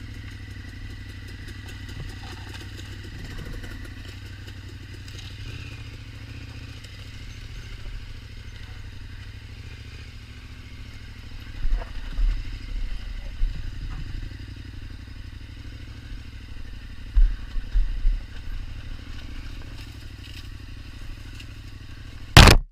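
KTM 1290 Super Adventure's V-twin engine running steadily, with a few bursts of low rumble in the middle and later on, and a loud sudden noise near the end.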